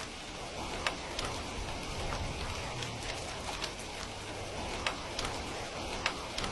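Steady rain, with a few sharp pops scattered through it.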